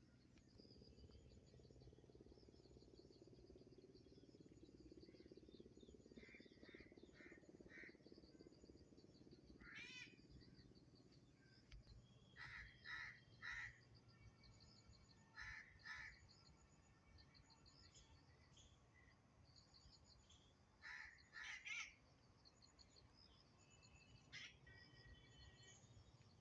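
Rufous treepie calling in short groups of two to four loud notes, repeated about half a dozen times, over a steady faint high-pitched chirping in the background.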